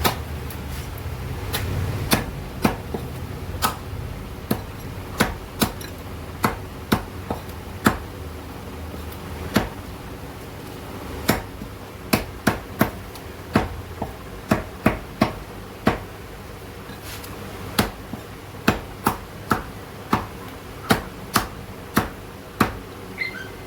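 Meat cleaver chopping a whole chicken into curry-cut pieces: about thirty sharp chops at an uneven pace, often two to four in quick succession, with short pauses between runs.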